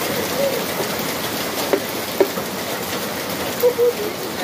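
Heavy rain falling steadily, with two sharp clicks about half a second apart just under halfway through and a brief pitched sound near the end.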